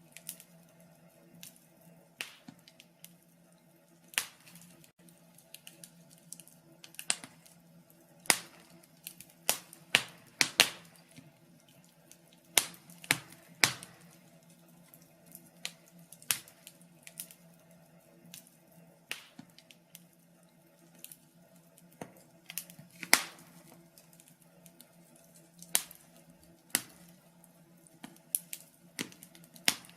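Wood fire crackling: irregular sharp pops and snaps at uneven intervals, a few much louder than the rest, over a faint steady low hum.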